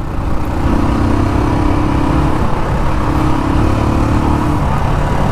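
Royal Enfield Classic 350 BS6's single-cylinder engine through its stock exhaust, running at high revs in gear while the bike is ridden. It holds a steady, loud note throughout.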